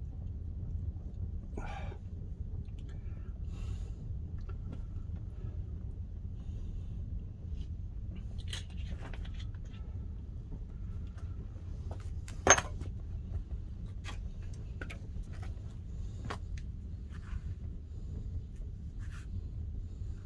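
Wood-fired pottery kiln burning pine firewood: a steady low rumble of the fire with scattered crackles and pops, one sharp pop about twelve seconds in.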